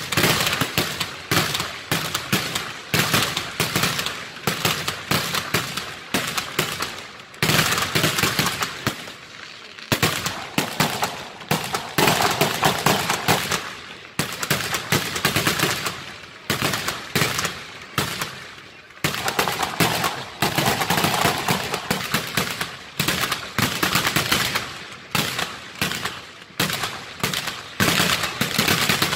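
Fireworks display: a rapid, near-continuous barrage of bangs and crackles from launched shells and firecrackers, with a few brief lulls.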